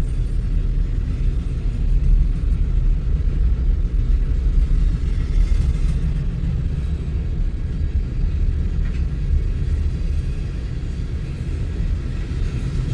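Freight train cars of a westbound manifest rolling past, a steady low rumble.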